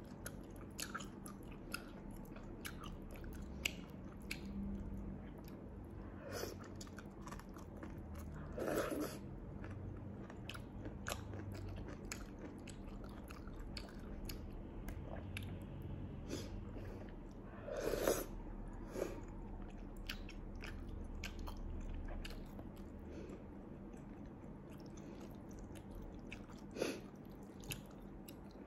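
Close-up mouth sounds of a person eating sea snail meat and cabbage in chili sauce: steady wet chewing with many small clicks and smacks, and a few louder wet mouth sounds spread through.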